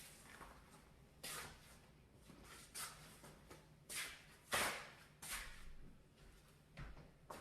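Short, irregular swishing strokes of hand cleaning on an oven: about six in all, the loudest about four and a half seconds in.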